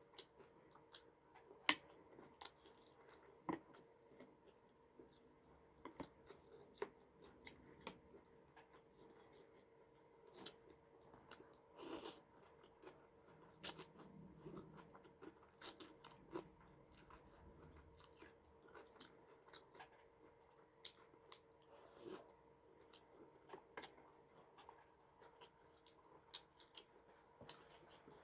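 A person chewing and biting crunchy food close to the microphone: irregular crisp crunches, one every second or so, over a faint steady hum.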